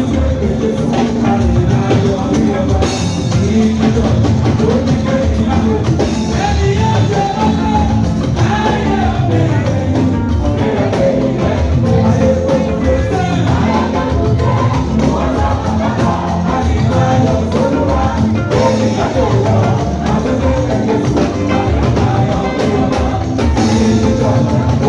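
A choir singing with a live band accompanying them, the drum kit keeping a steady beat.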